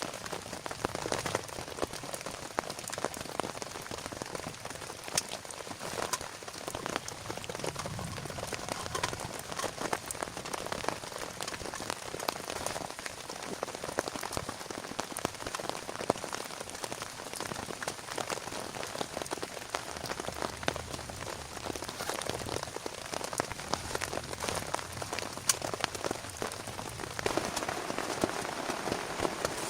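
Steady rain falling, with many individual drops ticking sharply as they strike close by.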